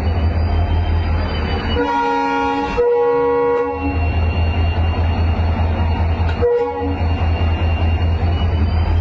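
WDP4D diesel locomotive's engine humming with a steady low throb and a thin high whine above it. A locomotive horn sounds a long blast about two seconds in and a short toot about six and a half seconds in.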